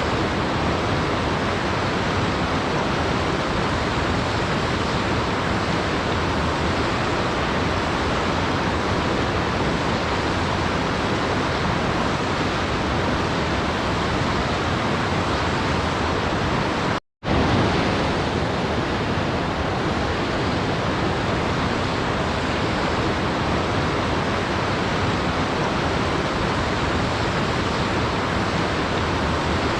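Waterfall rushing in a steady, even roar of water noise, cut by a brief gap of silence a little over halfway through.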